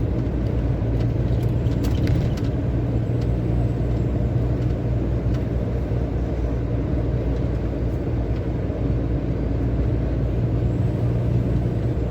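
Heavy truck's engine and road noise heard from inside the cab while driving: a steady low drone.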